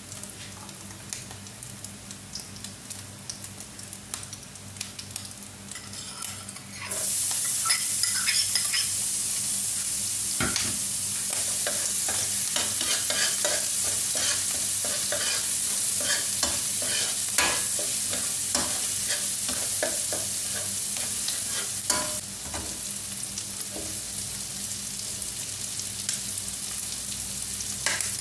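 Hot oil ticking lightly in a non-stick wok, then about a quarter of the way in a loud, steady sizzle starts as chopped garlic fries in the oil. A metal spatula scrapes and taps against the pan as it is stirred, and the sizzle eases a little near the end.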